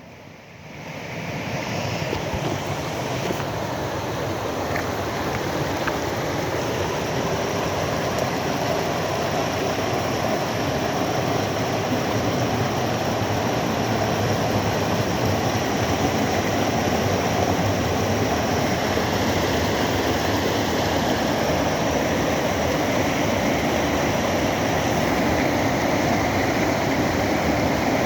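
Waterfall in a flash flood, heavy floodwater rushing and pouring in a loud, steady wash of noise that builds over the first two seconds and then holds.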